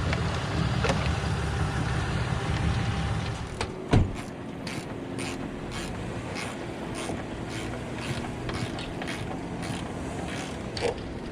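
Hand ratchet clicking in short, even strokes, about two to three clicks a second, after a sharp knock about four seconds in; a low rumble fills the first few seconds. It is the ratchet tightening the clamp on the jet ski's exhaust coupler, which keeps popping off.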